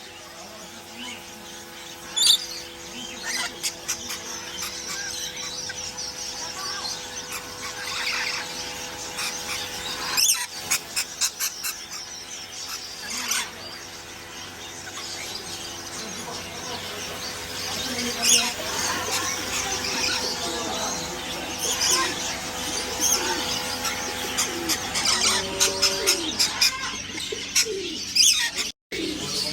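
Many caged birds chirping, squeaking and calling at once, a dense mix of short calls, with a steady hum beneath until near the end.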